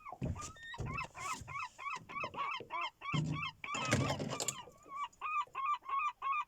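Gulls calling in a fast run of repeated short, arched notes, about three or four a second, with a few brief noisy bursts in between.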